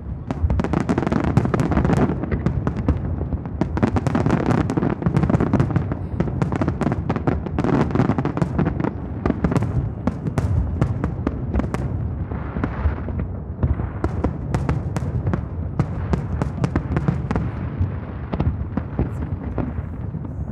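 Aerial fireworks going off in rapid, irregular succession: dense cracks and bangs, many a second, over a continuous low booming rumble.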